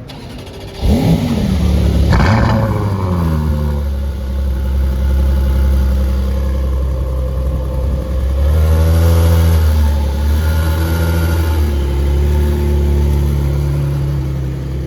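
A car engine revved hard twice in quick succession about a second in, its pitch climbing and dropping each time. It then settles to a steady low running note, with another short run of revs a little past the middle.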